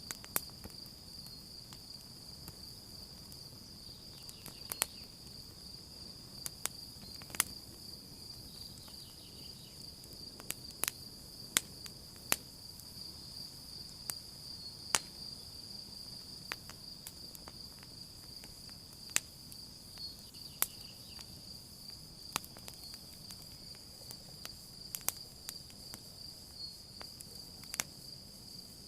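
Campfire crackling with sharp, irregular pops over a steady, high-pitched trill of crickets.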